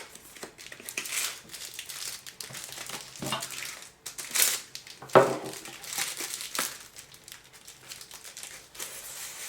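Packaging being handled while unwrapping: irregular crinkling and rustling of wrapping, with a few louder crackles about halfway through.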